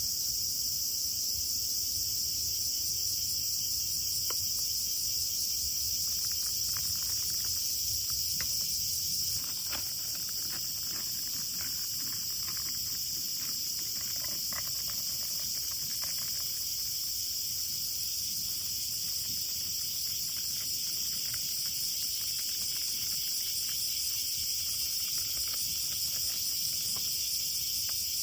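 Steady chorus of crickets and other insects chirring at several high pitches, with faint scattered clicks about a quarter of the way in.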